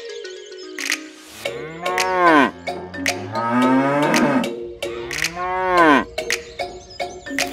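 Cows mooing: three long calls, each rising then falling in pitch, over light background music with a few clicks.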